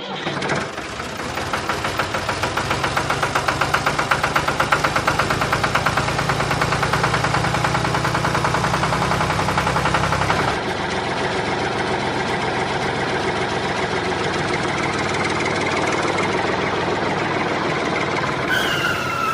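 Small homemade model engine running with a rapid, even mechanical clatter. It steadies and gets a little quieter a little past halfway.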